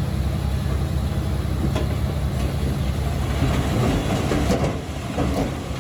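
Komatsu D21P crawler bulldozer's diesel engine running with a steady low rumble. Its steel tracks clank and rattle irregularly from about two seconds in.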